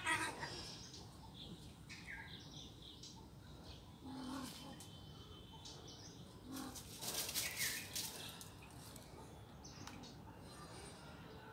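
Faint, scattered bird chirps, including short falling calls, with a few brief bursts of rustling noise.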